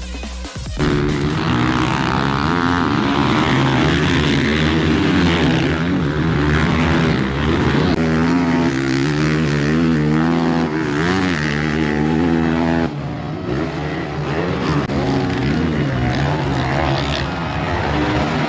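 450cc four-stroke motocross bike engines racing, the pitch of several engines rising and falling with throttle and gear changes. The sound drops suddenly about two-thirds of the way through.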